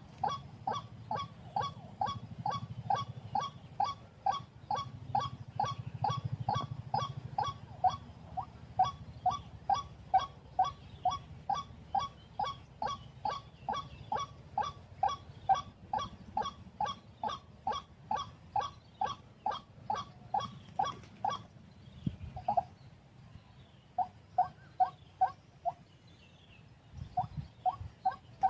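White-breasted waterhen (wak-wak bird) calling over and over, a short call repeated about two to three times a second for some twenty seconds, then after a brief pause in a few short bouts.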